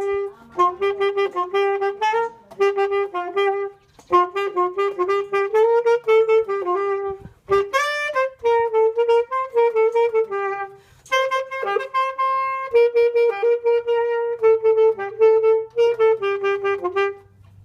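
Saxophone playing a melody in phrases of short notes with brief pauses, breaking off near the end.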